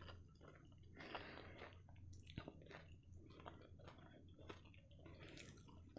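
Faint chewing of a mouthful of omelette with the mouth closed, with small scattered clicks.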